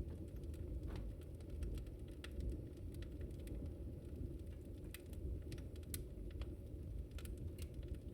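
Wood fire burning: a steady low rumble with many sharp crackles and pops at irregular intervals.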